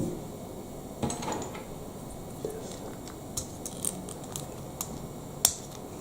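Lego Technic plastic parts being handled and fitted together: a soft knock or two, then scattered short sharp plastic clicks, the sharpest about five and a half seconds in.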